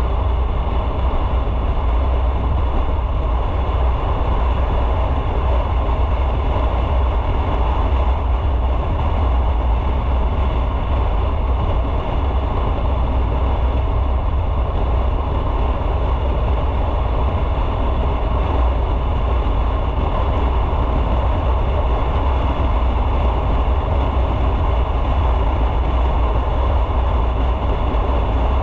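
Motorcycle riding at a steady pace: the engine running with road and wind noise, a loud, even rumble with no revving up or down.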